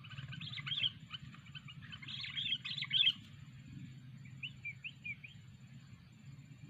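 Sooty-headed bulbul chirping: two quick, busy runs of chirps in the first three seconds, then a few softer, separate calls, over a steady low hum.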